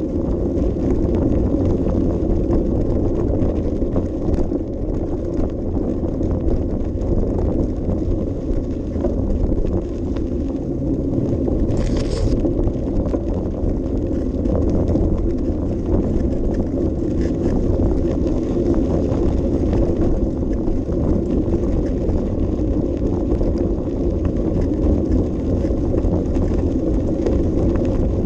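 Steady low rumble of tyre, drivetrain and wind noise from a bicycle ride, picked up by a small action camera riding along with the bike. A short high hiss about twelve seconds in.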